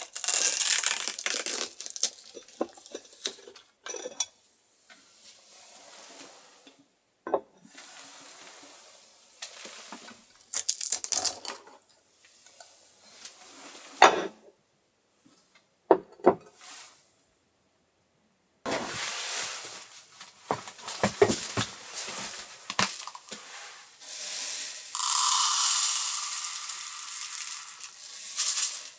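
Clinking and clattering of dishes and utensils being handled, scattered clicks and knocks with a few louder clinks, and longer stretches of hiss near the beginning and in the second half.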